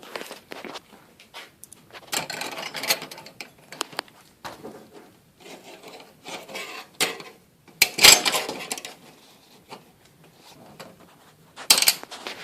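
Hardware and tools being handled: irregular rubbing and scraping with clicks and a few knocks, the loudest knock about eight seconds in and another near the end.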